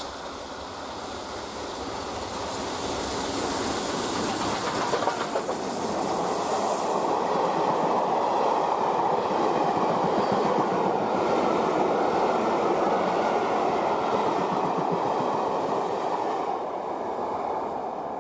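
Train hauled by the BR Standard Class 7 'Britannia' steam locomotive 70013 Oliver Cromwell running past: a dense rumbling rail noise that builds over the first few seconds, holds loud through the middle and fades near the end.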